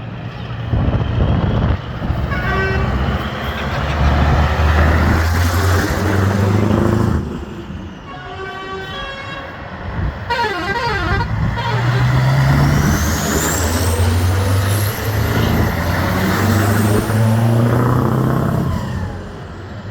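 Vintage trucks driving past one after another, their engines swelling and fading as each goes by. A horn sounds about two seconds in and again, longer, around nine to eleven seconds.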